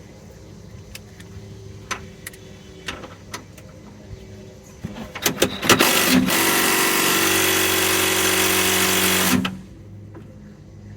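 Impact gun hammering on an idler arm mounting nut for about three and a half seconds, after a few clicks and knocks of the socket being fitted. The nut is on tight and does not break loose.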